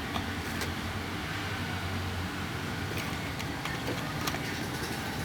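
Mini RC toy car's small motor and gears running with a steady hum that eases about two seconds in, with a few light clicks scattered through.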